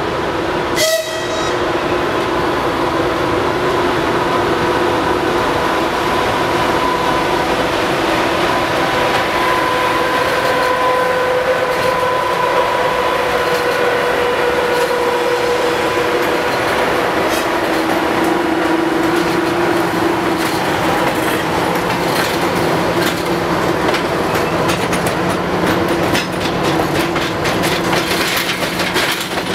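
Passenger train passing close by, with a steady whine over the rumble. From about two-thirds of the way through, the wheels clatter quickly over rail joints.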